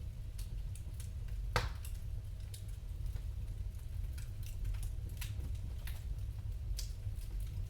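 Wood fire crackling in a fireplace: scattered sharp pops over a steady low rumble, with one louder pop about one and a half seconds in.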